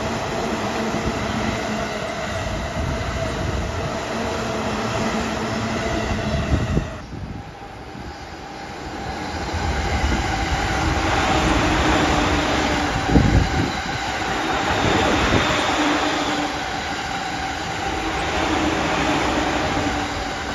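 Two JR East electric commuter trains, an E531 and then an E231, passing at speed. The first runs with a steady motor whine over wheels rumbling on the rails and breaks off suddenly about seven seconds in. The second train's rush then swells up, with a loud thump at its loudest point and a whine running through it.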